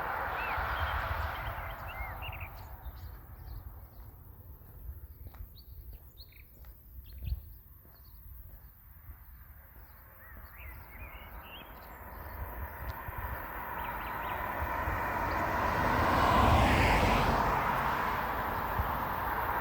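Small birds chirping in short calls, between a vehicle passing at the start, fading out over the first few seconds, and another vehicle approaching and going by about three-quarters of the way through. A single thump sounds about seven seconds in.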